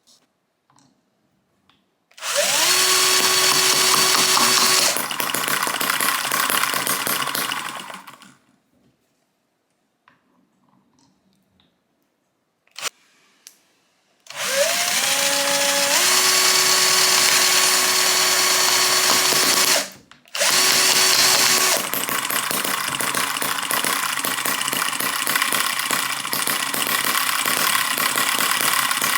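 Miniature four-stroke gasoline engine (Eachine EM2) being spun over by an electric starter, twice: each time a whine rises and then holds steady. In the second, longer run the sound turns into a rapid, even pulsing of the little engine running.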